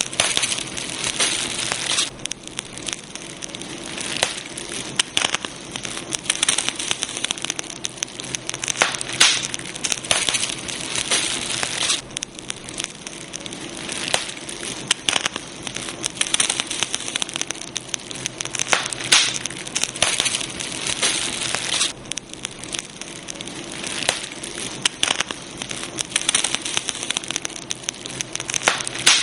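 Campfire burning, crackling and popping without a break: a dense stream of sharp snaps, some louder pops standing out, over a steady hiss of the flames.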